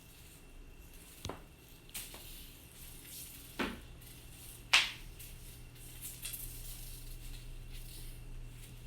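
A cat toy clattering in play: a few separate light clinks and knocks, the loudest about five seconds in.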